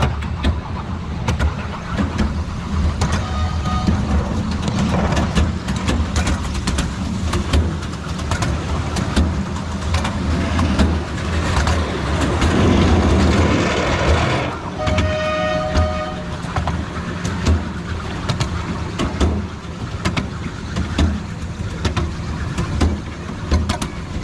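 Miniature railway train running, heard from aboard: a steady low rumble with frequent clicks of the wheels over the track, louder for a couple of seconds about halfway through. A short pitched toot sounds about two-thirds of the way in.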